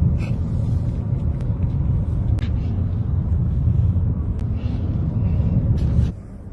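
Steady low rumble of a vehicle driving, with a few sharp clicks; it cuts off about six seconds in.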